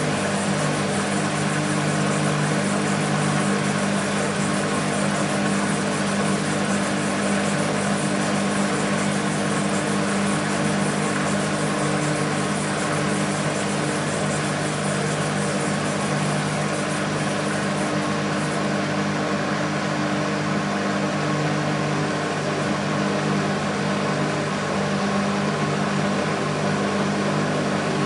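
BEKO WMB 51441 washing machine running at a steady speed: a constant motor hum with the noise of the turning drum.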